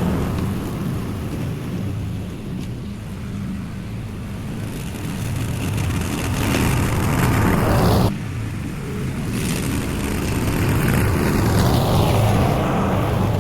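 Lawn mower engine running steadily while cutting overgrown grass on a second, lower pass, its noise swelling and easing. Its sound drops off sharply about eight seconds in, then builds again.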